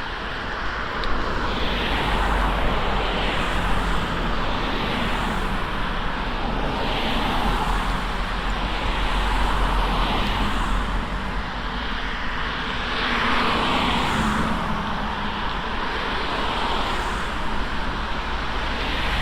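Wind rushing over the microphone of a moving bicycle, with a low rumble and swells of noise every few seconds.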